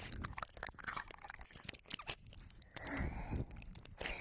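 Ear licking and wet mouth sounds close on a 3Dio binaural microphone: a dense, irregular string of wet clicks and smacks, with a short breathy stretch about three seconds in.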